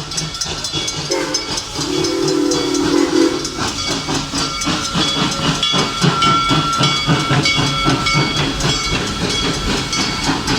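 Serengeti Express passenger train passing close by, wheels knocking rapidly over the rails with steady high squealing tones. A low tone sounds for about two seconds, starting about a second in.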